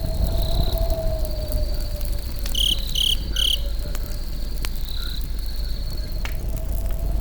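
Crickets trilling steadily over a campfire, with three short louder chirps about three seconds in and a few sharp crackles and snaps from the burning wood over a low rumble.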